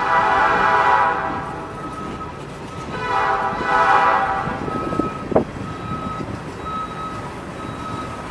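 A CN Brandt road-rail truck's Nathan P3 air horn sounds two blasts, the first about two seconds long and the second starting about three seconds in. After the second blast there is a sharp knock, then a backup alarm beeps at a steady pace.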